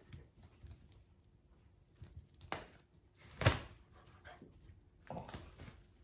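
Pet dogs breathing and moving about, quietly, with two short sharp noises about halfway through, the second the loudest.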